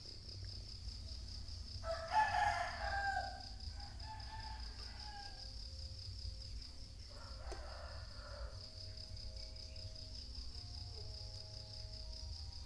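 A rooster crows loudly about two seconds in, and a second, fainter crow comes near the middle. Steady insect chirring runs throughout.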